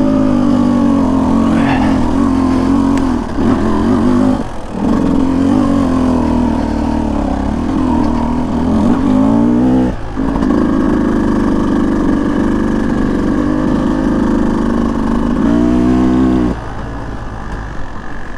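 Beta 200 two-stroke dirt bike engine under way, the revs rising and falling with the throttle, with two short drops in revs about a third and halfway through. Near the end it falls to a lower, quieter run.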